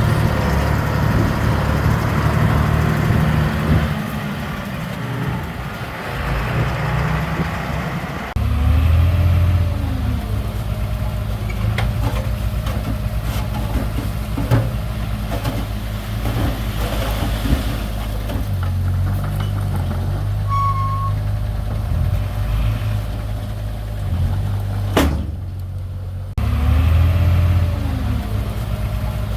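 Heavy earthmoving machinery running: the low, steady drone of diesel engines working, changing abruptly a few times where the footage is cut. A single sharp knock sounds about 25 seconds in.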